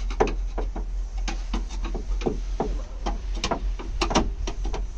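A rapid, irregular series of sharp clicks and knocks, several a second, over a steady low rumble.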